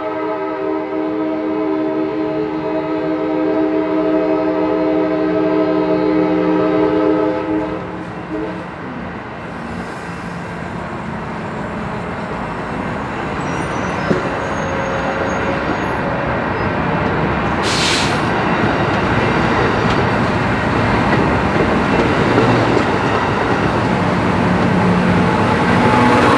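A train horn holds a long multi-note chord for about seven and a half seconds. Then the passing train's rumble and wheel noise on the rails grows steadily louder.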